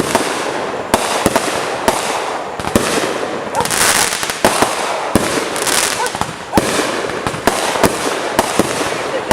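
Fireworks going off without pause: a steady crackling hiss with frequent sharp bangs at irregular intervals.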